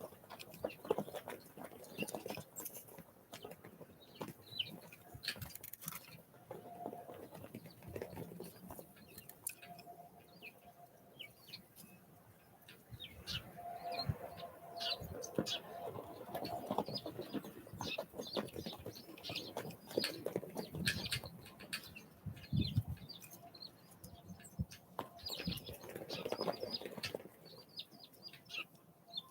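Small wild birds, such as tits and nuthatches, calling with many short high chirps, together with wing flutters and quick sharp taps.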